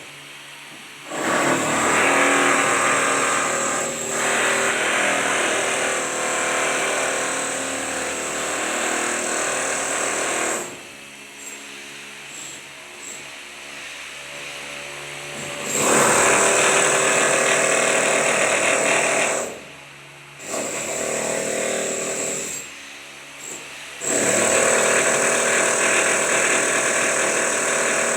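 A handheld power tool running in four long bursts with short pauses between: about nine seconds, then three, two and four seconds.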